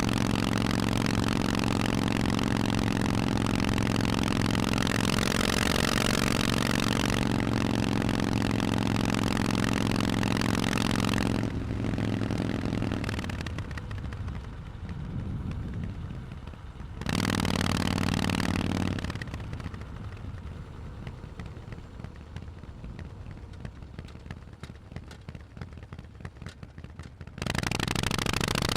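Harley-Davidson Forty-Eight's air-cooled V-twin running through Vance & Hines exhausts, steady under load at first, then easing off about a third of the way in. It picks up briefly around the middle, drops to a quieter rumble with light crackle, and comes back on the throttle near the end.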